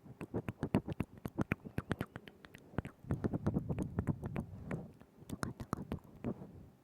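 Close-miked ASMR mouth sounds: quick, irregular wet clicks and smacks of the lips and tongue, with a softer, wetter stretch around the middle.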